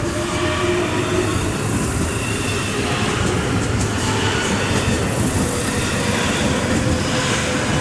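JR West 207 series electric commuter train running past and pulling away, a steady rumble of wheels on rail with thin whining tones over it.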